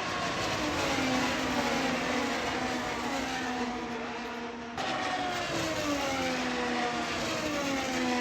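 Race car engine on a racing broadcast, its pitch falling steadily over several seconds as the car slows. About five seconds in the sound cuts abruptly to a higher pitch, which then falls again.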